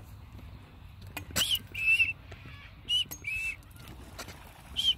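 Birds giving short whistled calls, each a higher note followed by a lower one, three times about a second and a half apart, with a few faint clicks.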